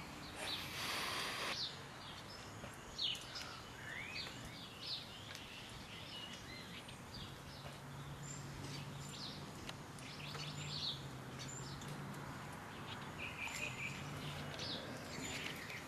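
Small birds chirping here and there, with a short rush of noise in the first second or so. From about halfway through, a faint low steady drone sits underneath: the engine hum of aircraft that the listener hears overhead but cannot see.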